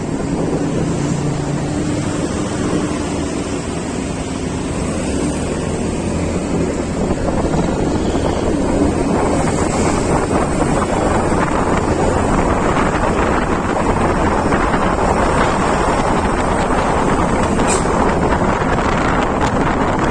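Wind rushing over the microphone on a moving road vehicle, with steady vehicle noise underneath; the rush grows louder about a third of the way in.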